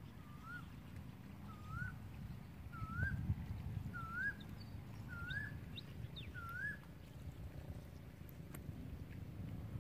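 A bird calling a series of seven short whistled notes, each rising then dropping off, about one every 0.9 s, with fainter high chirps of other birds around it and a low rumble underneath.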